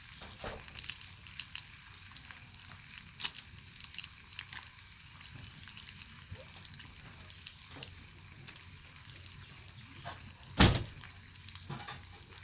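Bacon sizzling in a pan over a wood fire: a steady fine spitting crackle, broken by a sharp pop about three seconds in and a louder knock near the end.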